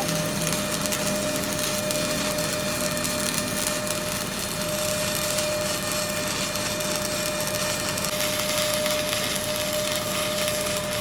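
Metalworking machine tool running steadily: an even cutting hiss with a constant high whine.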